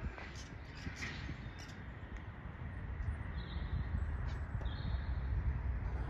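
Wild birds calling in bare trees: scattered short, high chirps and calls, a cluster in the first two seconds and two brief higher calls later on, over a steady low rumble.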